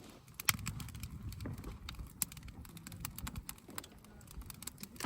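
Wood campfire crackling, with irregular sharp pops and snaps, several a second.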